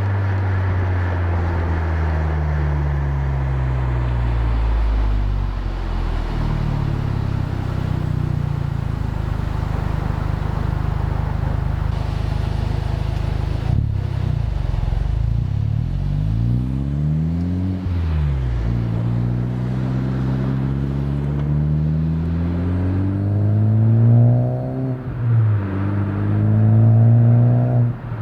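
Honda Civic Type R (FK8) 2.0-litre turbocharged four-cylinder heard at the exhaust, fitted with a catted aftermarket downpipe and the stock catback. It eases off and cruises at a steady pitch, then pulls several times in the second half, each time rising in pitch and dropping back sharply as it shifts up, the last pull near the end.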